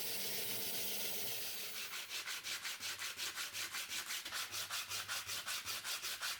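A steady hiss, then, about two seconds in, hand sanding begins: quick, even back-and-forth strokes of abrasive on a workpiece, about seven a second.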